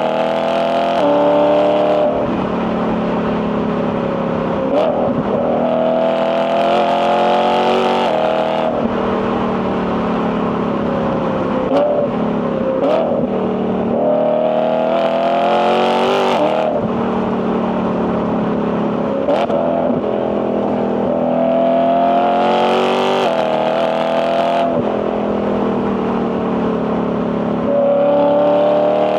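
BMW E92 M3's S65 4.0-litre V8 pulling hard through the gears: the engine note climbs and then drops abruptly at each quick dual-clutch upshift, several times over. A few short sharp cracks come between the pulls.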